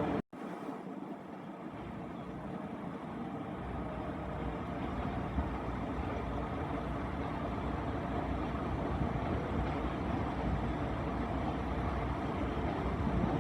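A train at a station platform, running with a steady engine-like rumble that grows deeper a few seconds in, after a brief cut to silence at the start.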